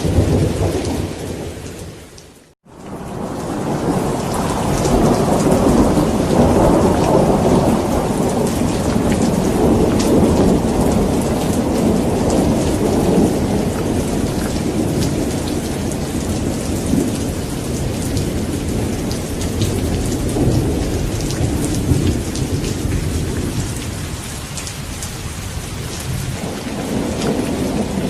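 Heavy rain falling with thunder rumbling long and low through most of it, swelling and easing. About two and a half seconds in, the whole sound briefly fades out to silence and comes back.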